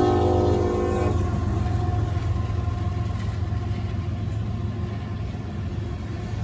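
Diesel locomotive horn sounding a multi-note chord that cuts off about a second in, followed by the steady low rumble of the train's engine and rolling cars.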